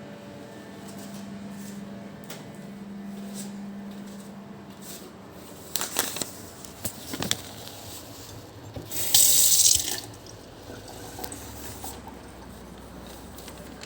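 A few clicks and knocks, then a water tap turned on, running for about a second and shut off. A low steady hum stops about four seconds in.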